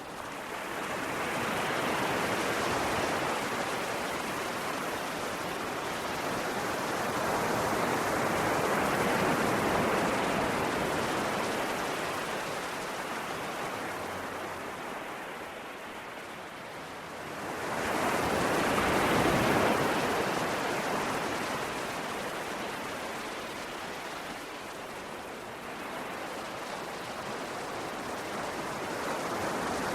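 Ocean waves washing onto a shore, the rush of water swelling and ebbing in slow surges several seconds apart, the biggest one about two-thirds of the way through.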